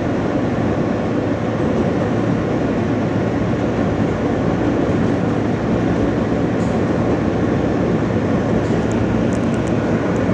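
Inside an R160 subway car under way between stations: the steady rumble of wheels on the rails and the traction motors, with a low even hum beneath it.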